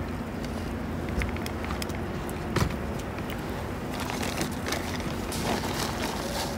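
Small wood fire in a titanium Bushbox LF stove, crackling and popping in scattered small clicks over a steady low hum. There is one louder knock about two and a half seconds in.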